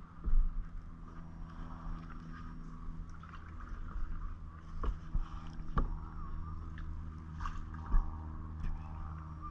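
Kayak paddling: paddle strokes in the water with several sharp knocks of the paddle against the hull, loudest about half a second in and near the end, over a steady low hum.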